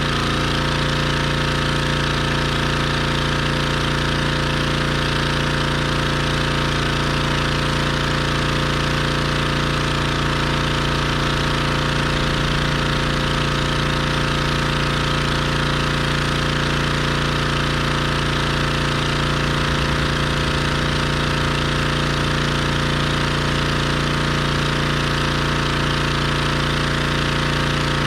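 Pressure washer engine running steadily at a constant speed, with a hiss over the top of its hum.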